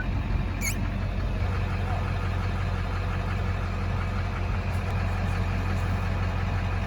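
Engine idling steadily with a low, even hum, and one brief high chirp under a second in.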